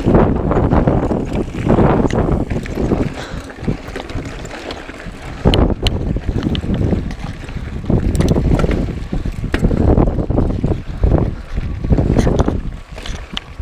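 Wind buffeting a mountain biker's camera microphone while riding, rising and falling in gusts, with a few sharp clicks and knocks from the bike on rough trail.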